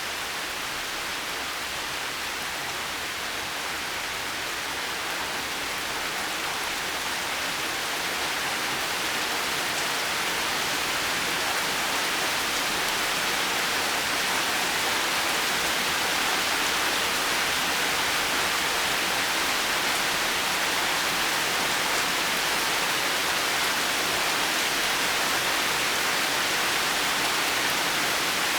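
Heavy rain falling steadily, an even hiss that grows a little louder over the first several seconds and then holds.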